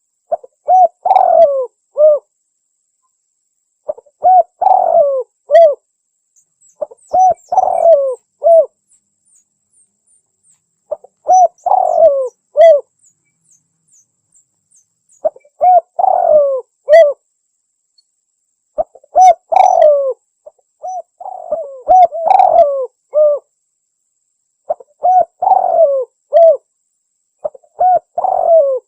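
Spotted dove (tekukur) cooing: a coo phrase of several notes, about two seconds long, repeated every three to four seconds, played as a lure call to draw doves in. Faint high chirps about a third of the way through.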